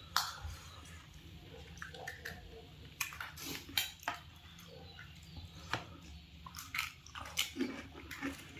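Crisp pani puri shells being bitten and chewed, with irregular sharp crunches and wet mouth sounds scattered through.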